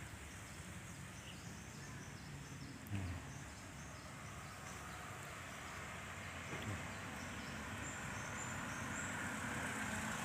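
Outdoor background noise with a run of short, high, repeated chirps and one dull thump about three seconds in; the background noise grows slowly louder toward the end.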